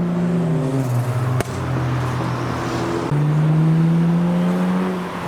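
A modified car's engine pulling past under power, its note dropping in pitch about half a second in. There is a single sharp crack about a second and a half in, and the engine picks up again and pulls higher from about three seconds.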